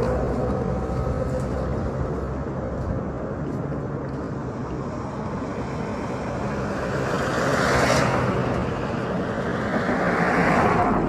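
Road traffic: a steady rumble of vehicles, with two passing close by, one about eight seconds in and another near the end, each swelling up and then fading.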